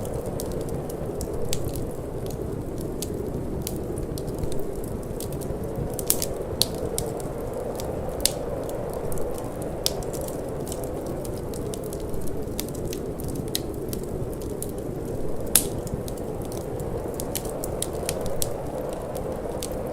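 Wood fire crackling with frequent irregular sharp pops, one louder pop about three quarters of the way through, over a steady low rush of wind.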